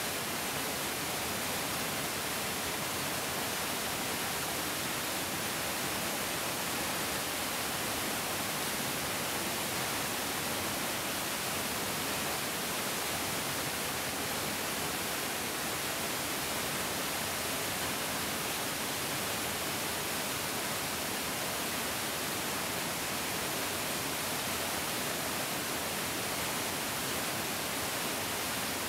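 Fairly large mountain stream rushing steadily, an even, unbroken hiss of flowing water.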